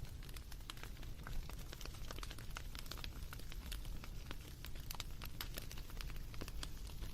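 Wood fire crackling: many small sharp pops and snaps at an irregular pace over a low steady rumble.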